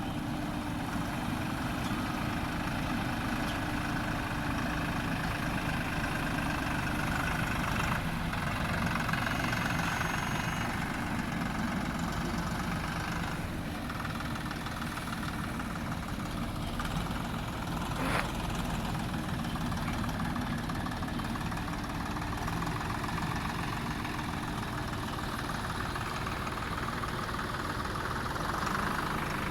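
Diesel engine of a JCB backhoe loader running steadily, with one sharp knock a little past halfway.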